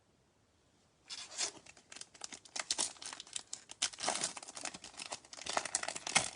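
A trading-card pack's foil wrapper being torn open and crinkled, starting about a second in as a quick run of irregular crackles.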